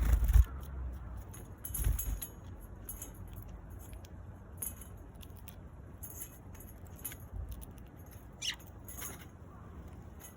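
Eurasian tree sparrows chirping in short, high calls scattered throughout, with one clearer sliding chirp near the end. A low thump at the very start, the loudest sound, and another about two seconds in.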